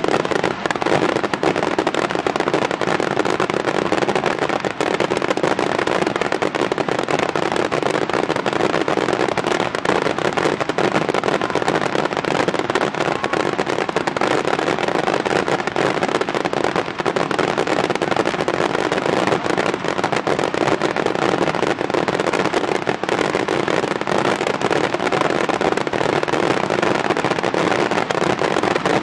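Large Japanese starmine fireworks finale: a continuous, densely packed barrage of shell bursts and crackling, with no break.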